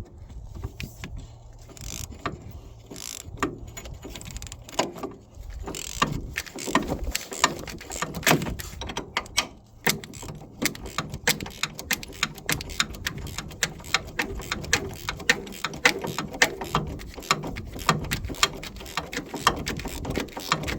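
Hand ratchet wrench clicking as it turns out a 15/16 engine mounting bolt: a few scattered clicks at first, then a steady run of about three or four clicks a second from about six seconds in.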